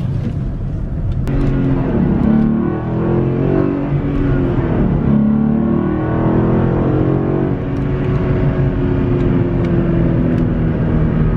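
Ford Mustang GT's 5.0 Coyote V8 under way, heard from inside the cabin, drawing through a newly fitted Steeda cold air intake that makes it louder. The engine note climbs about a second in as the gas is applied, rises and falls over the next few seconds, then settles to a steady drone.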